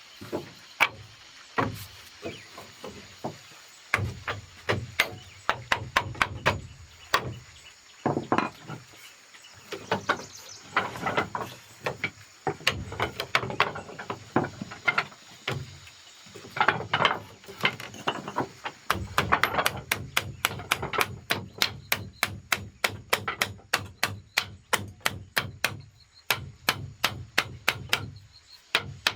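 A hand tool striking wood over and over, blow after blow. The strikes are irregular at first and settle into a fast, steady run of several a second over the last ten seconds.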